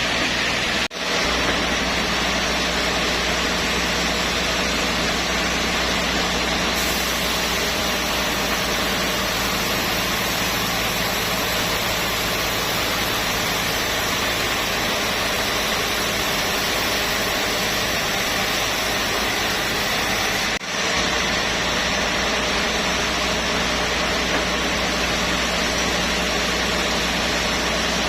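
Sawmill machinery running steadily with a constant engine-like drone, broken by two brief dropouts, one about a second in and one about two-thirds of the way through.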